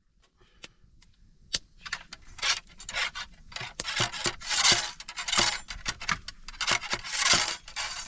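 Repeated scraping or rubbing strokes of hard objects, starting with a few scattered clicks and settling about two seconds in into a rough rhythm of roughly one stroke every half to one second.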